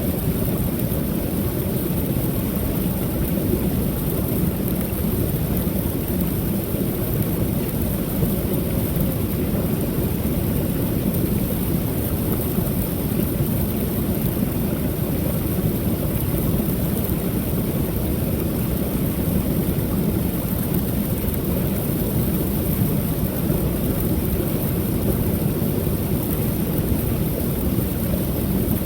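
Creek waterfall pouring steadily: a constant low rushing of falling water with a faint hiss above it.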